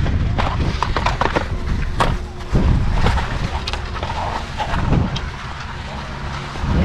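Skis scraping over snow, with scattered clicks and knocks of ski gear, over a steady low rumble of wind on the microphone.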